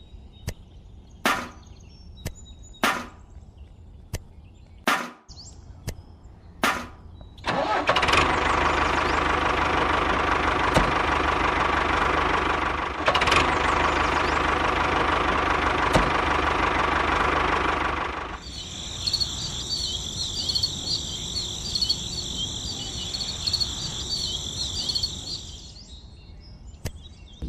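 Several sharp clicks, then a small engine starting and running steadily for about ten seconds. After it stops, a quieter high fluttering whine follows.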